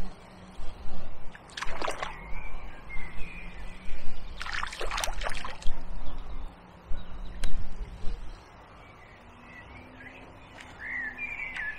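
Birds calling faintly, broken by short loud noisy bursts about two seconds in and again around five seconds in.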